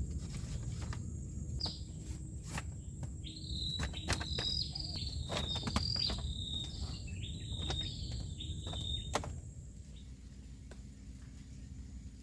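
A bird calling a run of repeated high chirping notes in the middle of the stretch, over scattered knocks and handling clatter and a steady low rumble; the knocks and chirps stop near the end.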